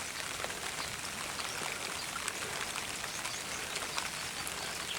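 Water dripping and trickling in a steady light patter of small drips.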